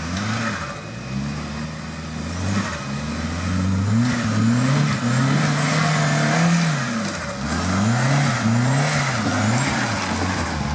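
Off-road competition vehicle's engine revving up and down over and over, held high for a couple of seconds midway, as it works its way over the course.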